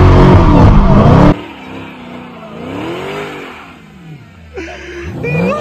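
Dodge Challenger SRT Hellcat's supercharged V8 revving hard during a burnout: very loud and close as the revs climb, then, after a sudden drop in level about a second in, heard from further off as the revs rise and fall in long sweeps, with a brief high squeal near the end.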